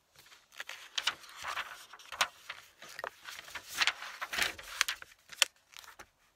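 Objects being handled on a writing desk: a run of rustling with many sharp clicks and knocks lasting about six seconds.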